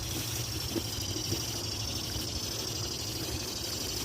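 Steady high-pitched chorus of insects with a fast pulsing texture, over a low rumble.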